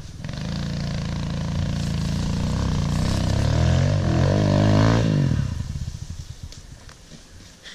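Small motorcycle engine held at wide-open throttle, its pitch climbing steadily as it accelerates, then fading out about five seconds in.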